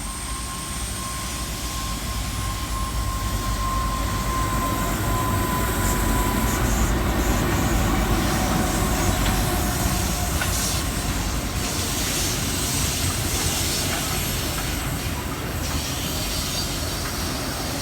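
Steel freight train hauled by an NR class diesel-electric locomotive passing through the station: a steady rumble of rolling wagons and wheels on the rails, with a thin steady whine that fades out about five seconds in.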